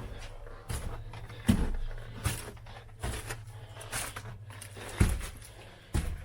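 Footsteps on a hard floor inside an empty house: irregular heavy thuds about once a second, with scuffs and small knocks between them.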